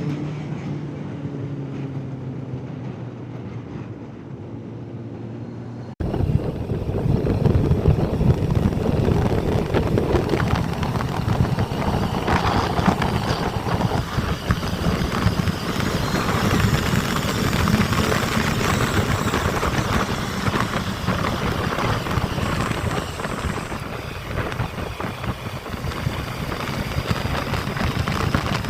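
Motorcycle riding along: the engine runs with a steady hum, then about six seconds in the sound switches abruptly to loud wind rushing over the microphone, with the engine underneath.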